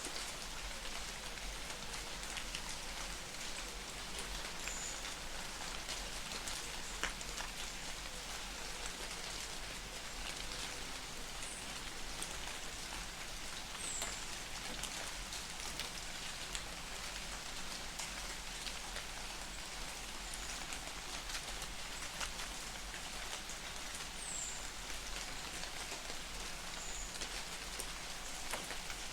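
Light rain falling in a forest: a steady hiss of drops with scattered individual drops ticking, and a few faint, short high chirps now and then.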